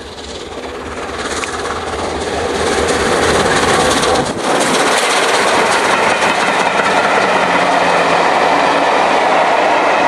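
LNER Peppercorn A1 Pacific steam locomotive 60163 Tornado and its train passing at speed. The sound grows louder over the first three seconds as the train comes up, dips briefly about four seconds in, and then holds as a loud, steady rush of the passing train.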